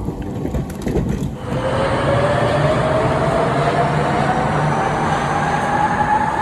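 Electric train's motor whine rising steadily in pitch as it accelerates, over a noisy running rumble.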